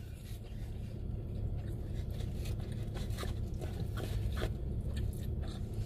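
Quiet chewing of a mouthful of poutine, with soft mouth sounds and a few faint clicks, over a steady low hum in a car cabin.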